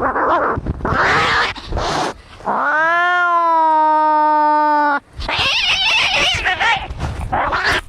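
Angry cats fighting: harsh hissing and spitting for about two seconds, then one long drawn-out yowl lasting about two and a half seconds that rises at its start and then holds steady, then more hissing.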